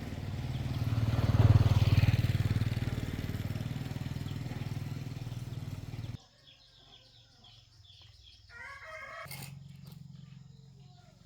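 A motorcycle engine running, loudest about a second and a half in and then easing off, until it cuts off abruptly about six seconds in. After that come faint bird chirps and a short call over a low hum.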